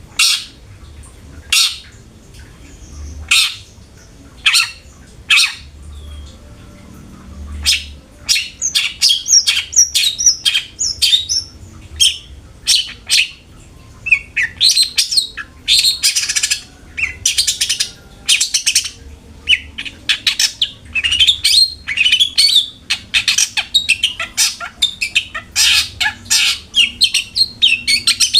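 Long-tailed shrike (cendet) calling: harsh, scratchy calls about once a second at first, breaking into fast chattering song from about eight seconds in, with a dense harsh stretch around fifteen seconds.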